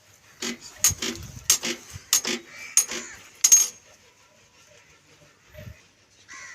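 A run of about seven sharp, irregular clinks and knocks over three seconds, like hard objects striking metal, followed a couple of seconds later by one dull thump. No engine is running.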